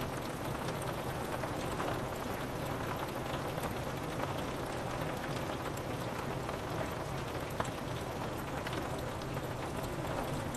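Steady rain falling on window glass, with individual drops tapping here and there over an even hiss.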